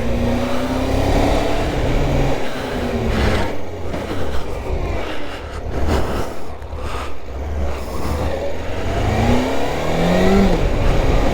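Suzuki GSX600F's inline four-cylinder engine running while riding, the revs rising and falling, with a climb and then a drop at a gear change near the end. Wind buffets the microphone.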